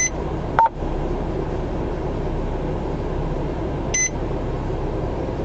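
Short electronic beeps from a police radio: one right at the start, a lower one just after, and another about four seconds in. Under them runs the steady low hum and rush of a patrol car's cabin.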